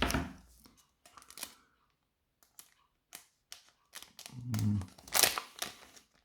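A Pokémon booster pack's foil wrapper being handled and torn open, with crinkling rustles and small clicks coming in scattered spells, the loudest rustling near the end.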